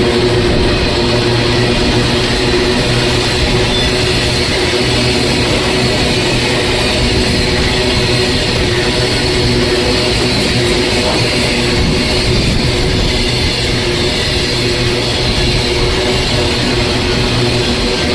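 Train running steadily: a loud, even rumble with a constant low engine drone that does not change.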